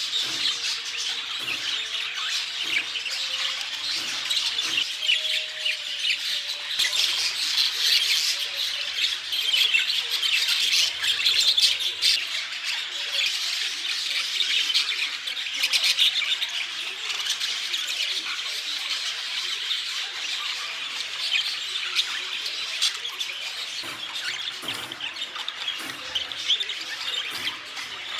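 A flock of budgerigars chattering and chirping continuously, many birds at once in a dense, busy wash of high calls.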